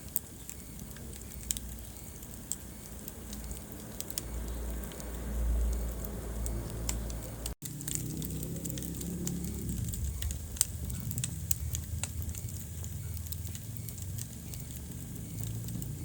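Wood fire in a fireplace crackling: scattered sharp pops and snaps over a low, steady rumble of flames. The sound cuts out for a split second about seven and a half seconds in.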